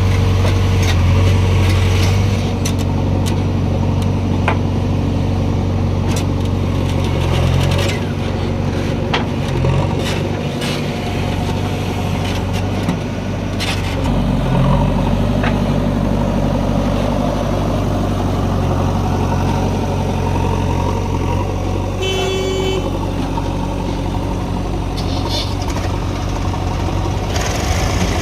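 Heavy diesel machinery running steadily, a JCB 3DX backhoe loader working beside tractors, with scattered knocks and clatters in the first half. A brief high tone sounds about three-quarters of the way through.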